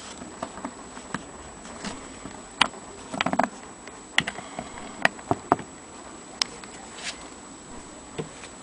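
Antique Jones sewing machine being handled and worked by hand: scattered sharp metallic clicks and taps at irregular intervals, with a quick run of about four clicks a little past three seconds in.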